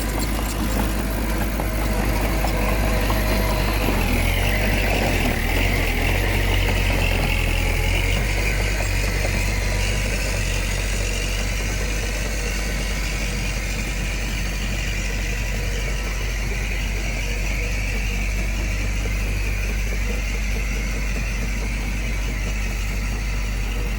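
Diesel engine of heavy road-building machinery running steadily, with a deep low drone; it works a little harder for a few seconds about four seconds in.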